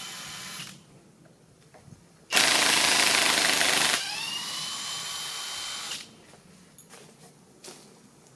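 An electric power tool motor in three bursts. First a short run, then about two seconds in a louder run under load for about a second and a half. Then it runs on more quietly for two seconds, its whine rising and holding steady before it stops.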